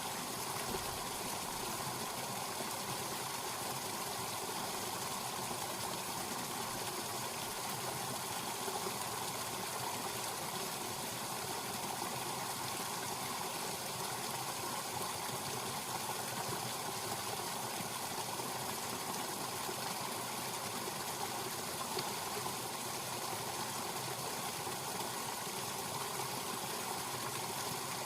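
Small snowmelt stream in spring, water running steadily.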